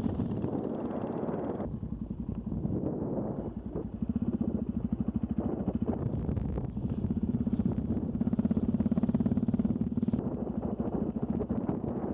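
Yamaha XT660Z Ténéré's single-cylinder engine running under way, with fast, even firing pulses that grow louder about four seconds in. Wind rushes over the microphone for the first couple of seconds.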